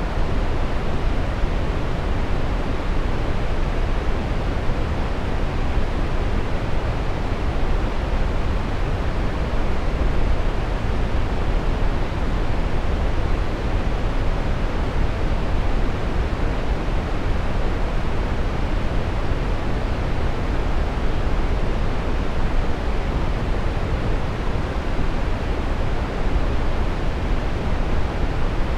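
Steady brown noise: an even, unbroken rushing hiss weighted toward the deep end, with no change in level.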